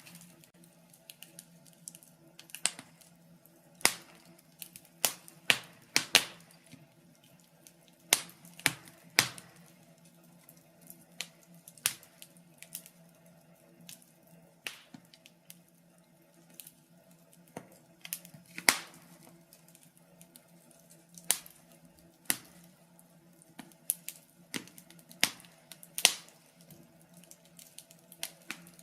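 Wood fire crackling in a fireplace: irregular sharp pops and snaps, some in quick clusters, over a faint steady low hiss and hum.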